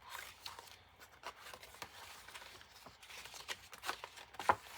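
Paper and card ephemera rustling and tapping as it is handled in a journal pocket, with one sharper tap near the end.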